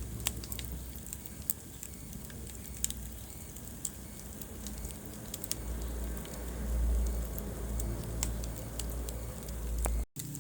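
Wood fire burning in a fireplace, crackling with irregular sharp pops over the low rumble of the flames; the rumble swells about two-thirds of the way through, and the sound cuts out for an instant near the end.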